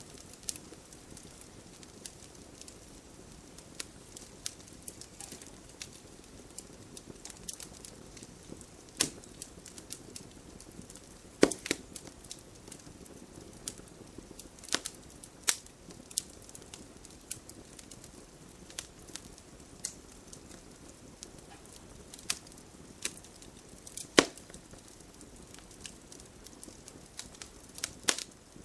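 Wood fire crackling, with a low steady hiss and scattered sharp pops; the loudest pops come about a third of the way in and again past the middle.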